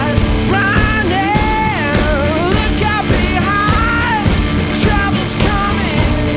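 A rock duo playing live: a voice singing over guitar and a driving drum beat.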